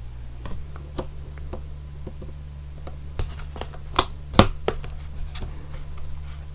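Scattered light clicks and taps of hands handling kitchen things, with two sharper knocks a little after four seconds in, over a steady low hum.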